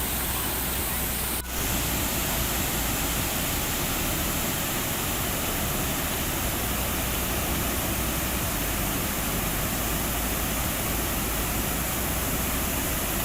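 Waterfall: a loud, steady rush of falling water, broken briefly by a cut about a second and a half in.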